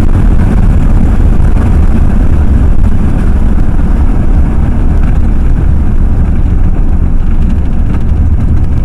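Ford F-350 pickup cruising at about 60 mph, heard from inside the cab: a loud, steady rush of road and wind noise over a heavy low rumble.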